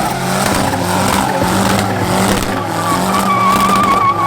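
A car engine held at high revs while its tyres spin and squeal in a burnout or drift; a high, wavering tyre squeal comes in about three seconds in.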